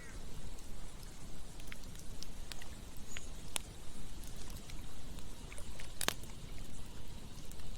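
Campfire burning: scattered sharp crackles and pops, the loudest about six seconds in, over a steady low rushing noise.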